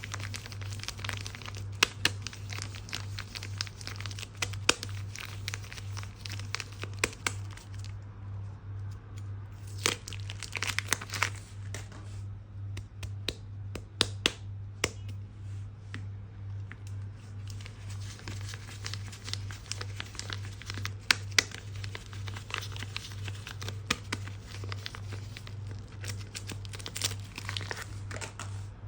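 Soap wrapping crinkling and tearing as soap is unpacked by hand, in close clusters of crackles and sharp clicks with short pauses. A steady low hum runs underneath.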